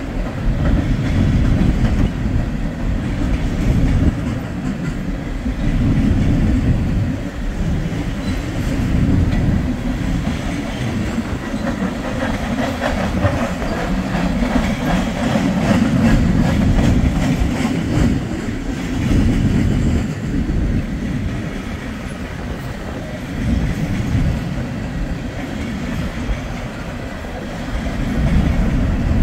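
Wheeling & Lake Erie freight train cars rolling past: a steady low rumble, with a stretch of wheels clacking over rail joints about halfway through.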